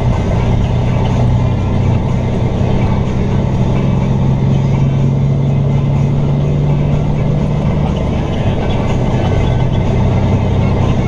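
Peterbilt 379 semi truck's diesel engine running steadily under way, a constant low drone with road noise, its pitch shifting slightly about eight seconds in.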